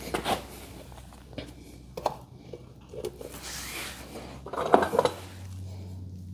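Metal hardware clinking and knocking as it is handled, with scattered sharp clicks, a brief scrape and a loud cluster of clinks about five seconds in. A low steady hum starts at the same moment and carries on.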